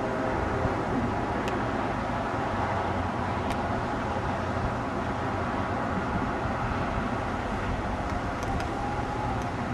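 Passenger train running with a steady rumble and a low hum, with a few faint clicks.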